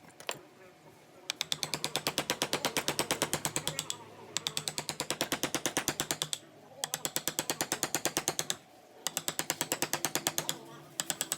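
Rapid ratchet-like mechanical clicking, about eleven clicks a second, in runs of about two seconds separated by short pauses, starting about a second in.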